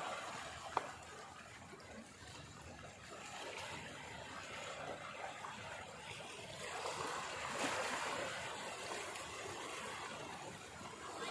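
Running water, a steady rushing that swells about seven seconds in, with one sharp click about a second in.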